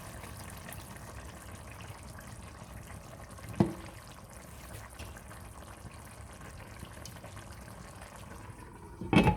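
Half a cup of water being poured into a pot of spinach chicken curry on the stove, with a steady liquid hiss throughout. A sharp knock comes about three and a half seconds in and a louder one near the end.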